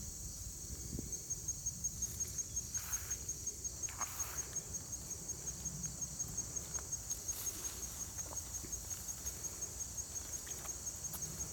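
An insect chirping steadily in a high, even pulse about five times a second, with a few faint rustles about three and four seconds in.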